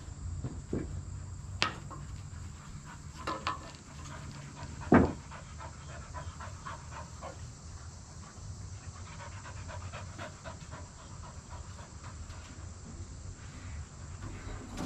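German Short-Haired Pointer panting hard in quick breaths. A few sharp knocks cut in over the panting, the loudest about five seconds in.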